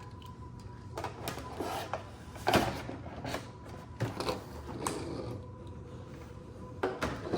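Toy monster trucks handled and set down on a countertop: scattered light knocks and rustles about once a second.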